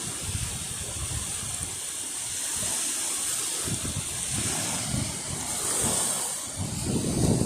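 Surf from a rough sea washing on the shore, with wind buffeting the microphone in uneven low gusts that grow stronger near the end.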